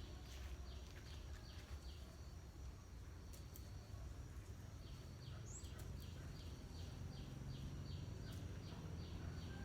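An animal chirping: short high chirps, each falling in pitch, repeated about three a second in two runs, over a steady low rumble.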